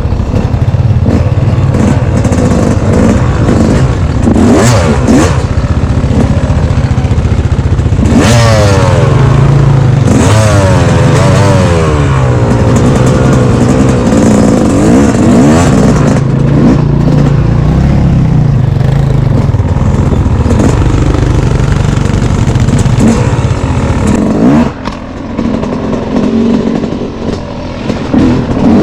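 Off-road vehicle engine revving up and down while riding a trail, heard loud and close. The engine eases off about four seconds before the end.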